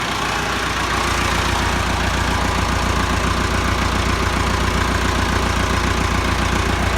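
Massey Ferguson 375 tractor's diesel engine idling steadily through a modified exhaust, freshly started.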